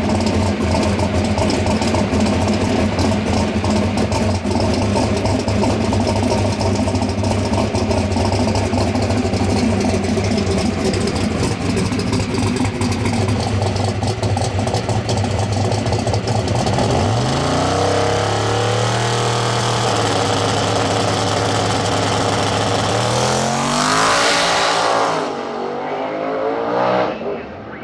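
Drag-race car engine held at steady high revs with a rapid crackling, then, about 17 seconds in, revs climbing in several rising surges as the car accelerates away. Near the end the note peaks and falls off quickly.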